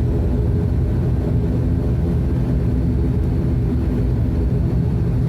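Turboprop airliner's engines and propellers running steadily, a constant low drone with a steady hum of tones, heard from inside the passenger cabin before takeoff.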